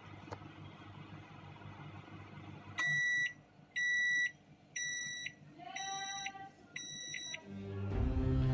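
Microwave oven running with a low hum that stops, then five evenly spaced electronic beeps, each about half a second long, signalling the end of the heating cycle. Music comes in near the end.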